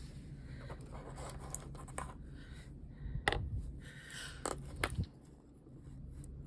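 Small taps, clicks and scrapes of craft tools and materials being handled on a work surface, with a few sharper clicks about halfway through, over a steady low hum.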